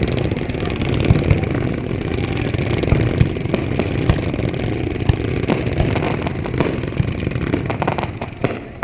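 Fireworks going off: repeated booms and sharp pops over a steady background rumble, turning into a quick run of crackles near the end.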